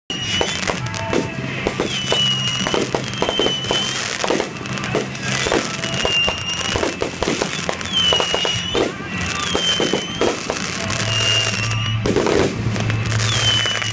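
Aerial fireworks bursting and crackling, many sharp reports in quick succession, with music playing under them.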